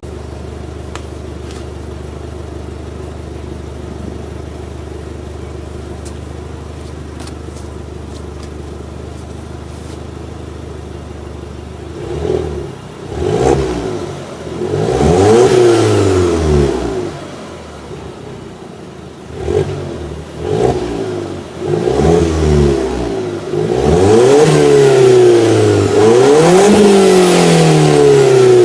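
2014 Alfa Romeo Giulietta Quadrifoglio Verde's 1750 TBi turbocharged four-cylinder engine, breathing through an aftermarket Armaflow exhaust. It idles steadily, then from about halfway is revved in a series of quick blips. Near the end it is held at higher revs, rising and falling repeatedly.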